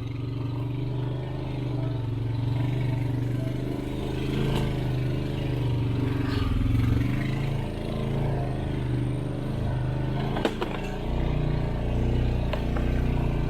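Off-road vehicle's engine running steadily while driving, with a few knocks and rattles, the sharpest about ten and a half seconds in.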